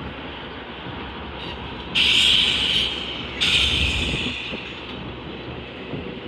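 Freight train rolling through a rail yard with a steady rumble, broken by two sudden, loud high-pitched screeches, each about a second long, starting about two and three and a half seconds in.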